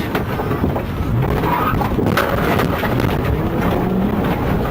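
Patrol car engine and road noise at speed during a pursuit, with the engine pitch briefly rising a few times and a couple of short knocks.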